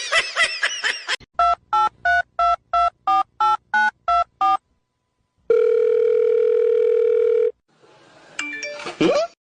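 Telephone keypad dialing tones: about eleven quick two-note beeps in a row, then, after a short gap, one steady tone lasting about two seconds. Short chirping glides come at the start and near the end.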